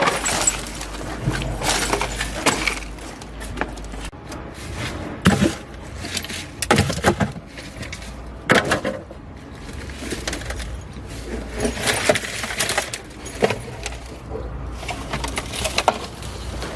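Irregular sharp clinks, cracks and clatter of hard objects striking, coming in clusters every second or two, with a glassy or metallic ring.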